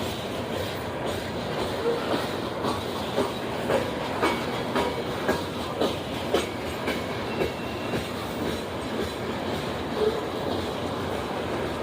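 Train rolling past, a steady rumble with its wheels clicking over rail joints about twice a second, the clicks loudest in the middle and fading toward the end.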